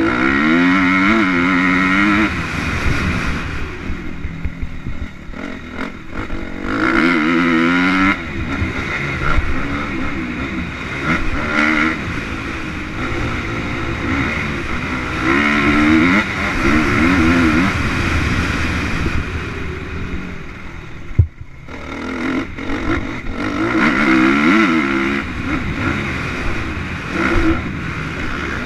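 Motocross motorcycle engines running on a dirt track, revving up and down through gear changes, growing louder in waves as bikes come past. A single sharp knock comes about twenty seconds in.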